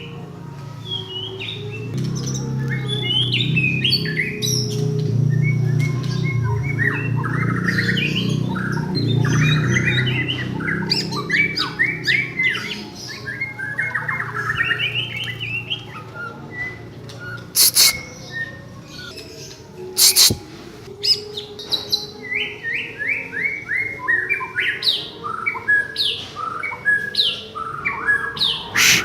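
Cucak ijo (greater green leafbird) song: a long stream of fast, varied chirps, trills and quick runs of repeated notes. A low rumble runs under the song through the first half, and two sharp clicks come past the middle.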